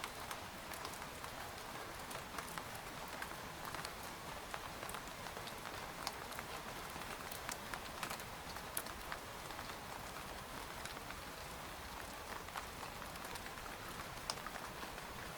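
Steady rain falling on a tent, a constant hiss of rainfall with individual drops ticking irregularly and sharply on the fabric.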